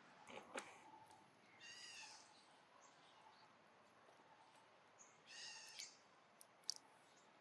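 Baby monkey giving two short, high-pitched, faint calls about three and a half seconds apart, with a few light clicks around them.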